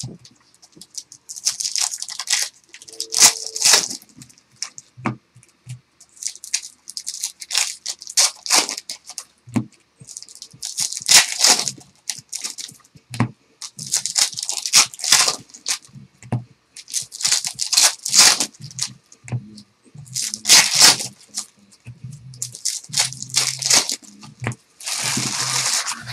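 Trading-card pack wrappers being torn open and crinkled: repeated bursts of tearing and rustling, about one every two or three seconds, with some handling bumps.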